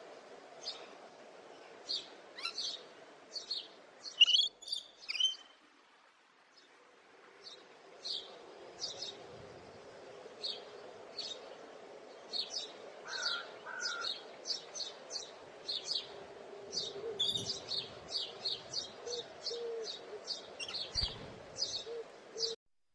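Small birds chirping: many short, high chirps in quick succession over a faint steady hum. The chirping pauses briefly about six seconds in, then comes back denser.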